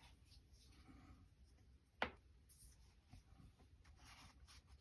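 Near silence with faint brush strokes on watercolor paper and a single sharp click about two seconds in.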